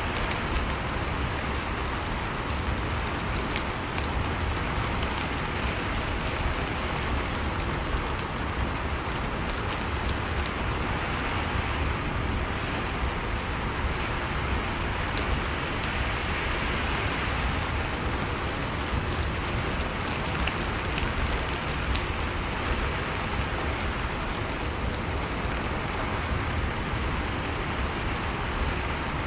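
Steady, dense rain falling and pattering on surfaces, with scattered individual drops.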